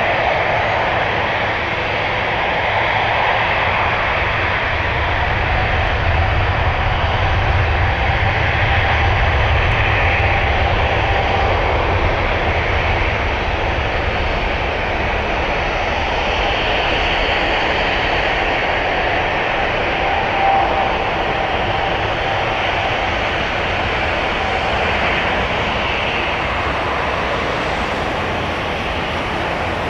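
Boeing 777's twin jet engines at takeoff thrust during the takeoff, a loud steady rumble with hiss that swells a little in the middle.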